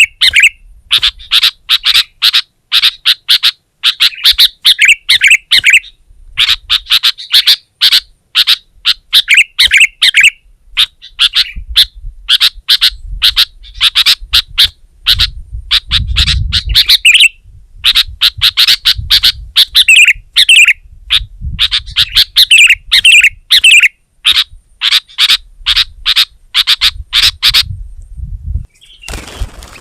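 Sooty-headed bulbul singing persistently: rapid strings of loud chirping notes in phrases a few seconds long, broken by short pauses.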